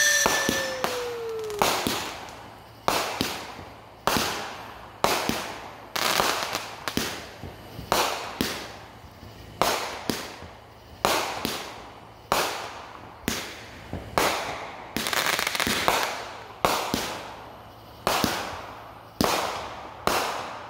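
Consumer aerial fireworks going off in a long, steady series of sharp bangs, about one to two a second, each ringing out with an echo. A falling whistle trails off over the first couple of seconds.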